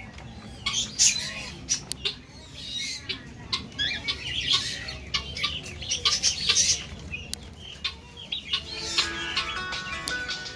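Many caged birds chirping and squawking with short, sharp calls. Music comes in about three-quarters of the way through.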